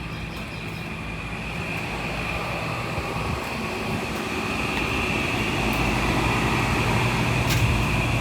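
Commercial air conditioning condenser unit running: a steady low hum from the compressor and fan with a high whine over it, growing gradually louder.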